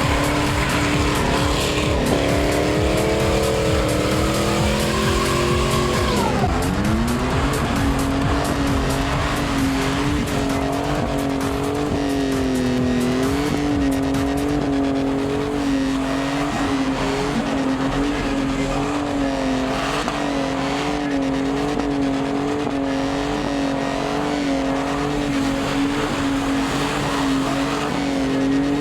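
A vehicle's tires squealing in one long, sustained squeal that wavers slightly in pitch, with a sharp dip in pitch about six seconds in. Engine rumble under it fades somewhat after the dip.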